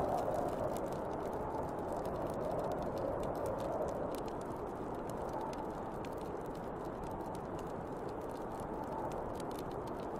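Snowstorm wind blowing in gusts, strongest near the start, with a bonfire crackling in many small sharp snaps throughout.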